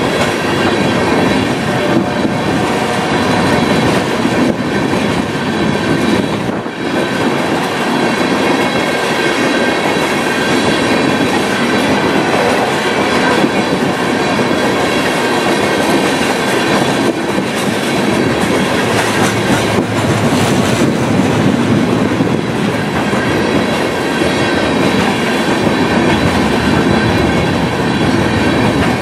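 Covered hopper cars of a freight train rolling steadily past close by: the steady rumble of steel wheels on rail, clicking over the rail joints, with a thin, steady high squeal from the wheels above it.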